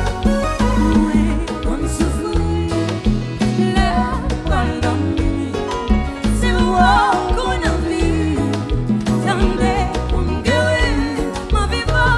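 Haitian konpa band music played live: a steady, pulsing bass beat with guitar, and a singer's voice over it in the middle.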